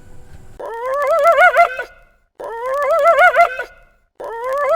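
Spotted hyena "laughing": three identical giggling calls, each a rapidly wavering, rising-and-falling pitch lasting just over a second, with short pauses between them.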